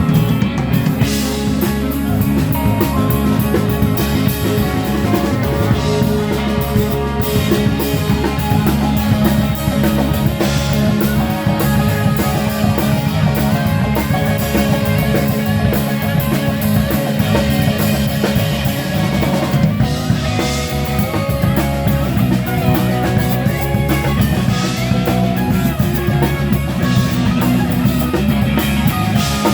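Live band playing an instrumental passage: electric guitar lines over a steady drum kit beat and bass.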